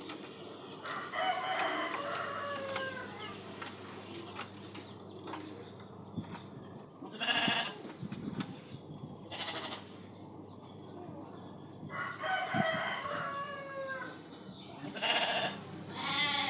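A rooster crowing twice, once near the start and again about twelve seconds later, with short scratchy noises and a run of quick high chirps in between.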